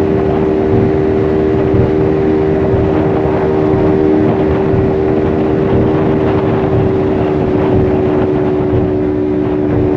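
Motorcycle engine running at a steady speed, with a constant hum under rushing road and wind noise.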